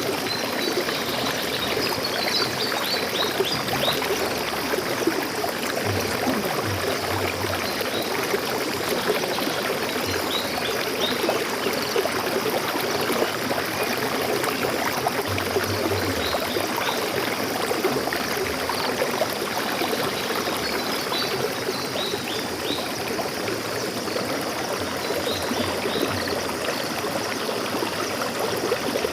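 Stream water flowing steadily over rocks, with a few brief clusters of high bird chirps above it.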